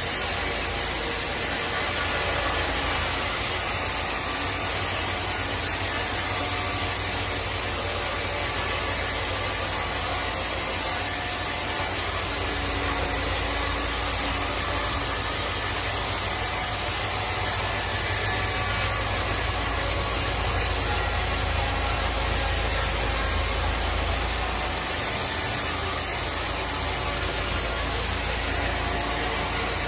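Sawmill machinery running steadily, a continuous low hum under a high hiss, as a teak log is worked.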